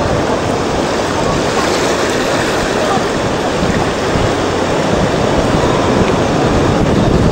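Ocean waves breaking and washing up the beach: a loud, steady rush of surf.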